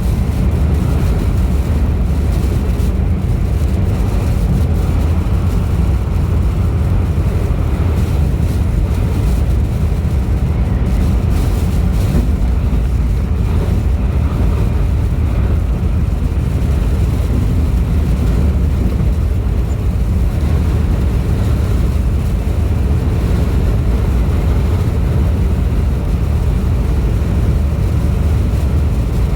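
Strong gusting wind buffeting the microphone: a loud, steady low rumble with a hiss of wind above it.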